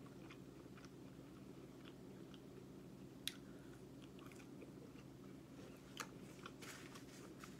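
Faint close-up chewing of a sauce-dipped chicken nugget, with soft wet mouth clicks, a sharper smack about three seconds in and a few more smacks near the end.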